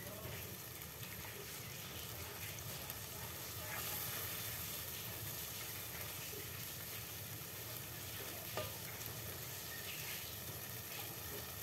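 Curry spice paste sizzling steadily in hot oil in a pot, sautéed until fragrant, with a few spatula strokes scraping through it.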